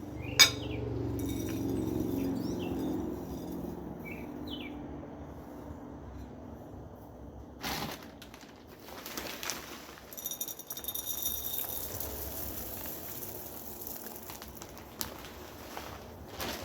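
Small wild birds chirping and singing, with short falling chirps and later a run of high repeated notes, over a low steady traffic hum. There is a sharp click about half a second in and a stretch of rustling in the middle.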